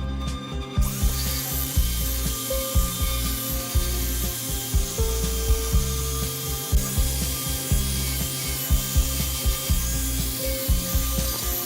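A woodworking tool cutting wood: a steady scraping hiss that comes in about a second in, with irregular knocks and clicks.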